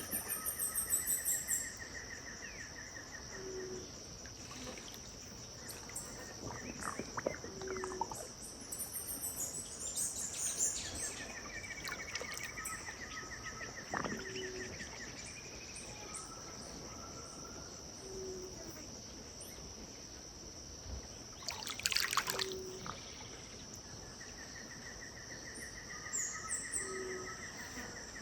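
Riverside bird chorus: several birds calling, including a pulsed trill that comes and goes three times and scattered high chirps. Under it runs a steady high insect drone, with a short low note repeating every two or three seconds and soft water sounds.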